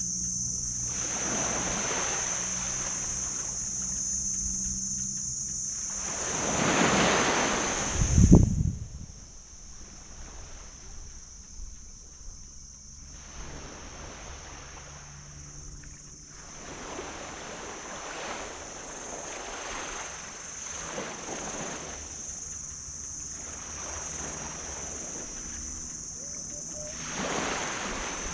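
Small tropical waves breaking and washing up a sandy beach in repeated swells, the biggest one about seven seconds in and ending in a low thump about eight seconds in.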